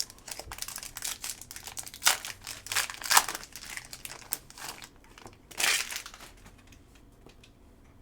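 Crinkling and rustling of a foil trading-card pack wrapper and the cards being handled, in a run of short rustles that dies down near the end.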